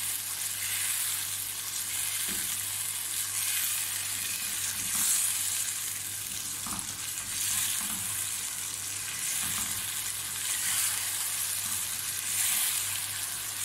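Beef and spice masala sizzling in oil in a nonstick karahi while a spatula stirs it, the sizzle swelling every couple of seconds with the stirring. The yogurt has cooked down dry, so the masala is now frying. A steady low hum runs underneath.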